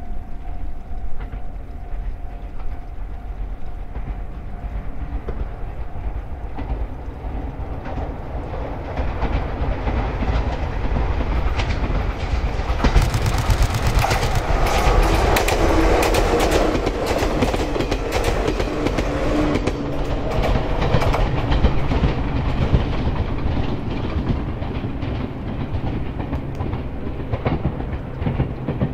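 Toyama Chihō Railway Double Decker Express electric train approaching and passing, its wheels clicking over the rail joints, loudest about halfway through, then fading as it moves away.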